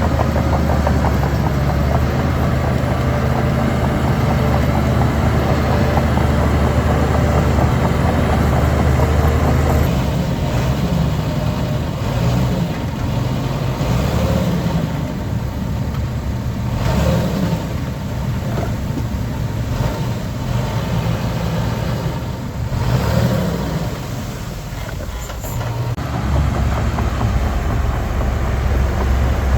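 Heavy diesel engines of earthmoving machinery running steadily. About a third of the way in the sound changes, and the engine note rises and falls a couple of times after that.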